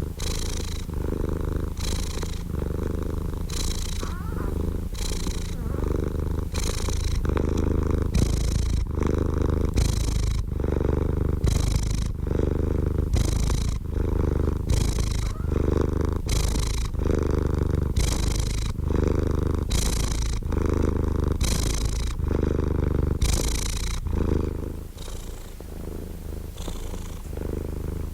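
Domestic cat purring close up: a steady low rumble that swells with each breath, about once every second and a half. It grows quieter for a few seconds near the end.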